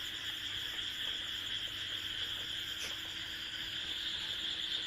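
Steady, high-pitched chorus of crickets calling without a break.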